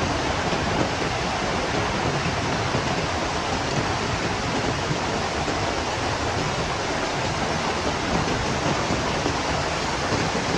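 Heavy rain in strong wind: a dense, steady hiss with no let-up.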